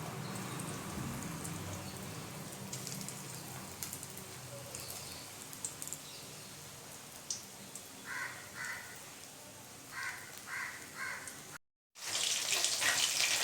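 A crow cawing about six times in the background, in two short runs, over a faint hiss. After a brief break near the end, loud crackling hiss of breaded prawns frying in hot oil.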